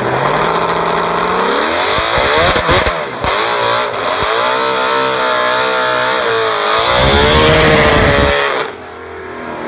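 Evinrude two-stroke V8 outboard powerhead with large expansion-chamber exhausts, revving hard in a car. The pitch climbs over the first two seconds, rises and falls, holds high for a stretch, then drops away near the end.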